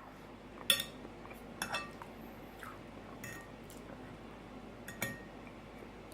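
Cutlery clinking against a dinner plate four times, a second or so apart, each a short sharp click with a brief ring.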